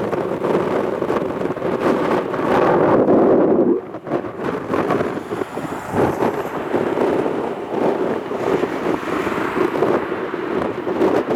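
Strong wind buffeting the microphone in gusts, mixed with the low roar of a Boeing 787's jet engines on take-off. The rumble swells and fades, dipping briefly about four seconds in.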